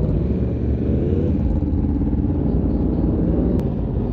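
Sport bike engine running under way: a steady rumble whose pitch rises a little about a second in, then holds.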